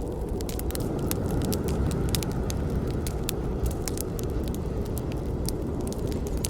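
Wood campfire burning: a steady low rush of flames with frequent, irregular sharp crackles and pops from the burning wood.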